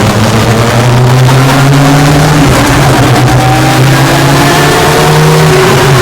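Vauxhall Corsa B engine pulling hard under acceleration, heard loud inside the stripped-out cabin with the windows open. Its note climbs in pitch and drops back at gear changes.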